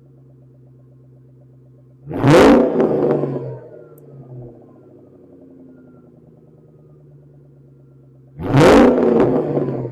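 2003 SVT Cobra's supercharged 4.6-litre V8 idling, blipped twice to a sharp rev that drops back to idle, through a Bassani X-pipe with high-flow cats and a Steeda cat-back exhaust.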